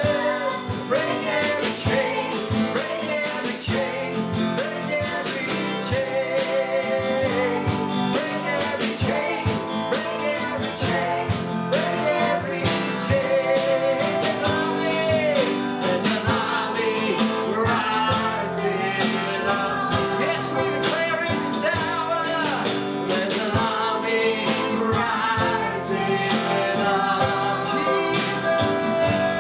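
Worship song: a voice singing over strummed guitar accompaniment.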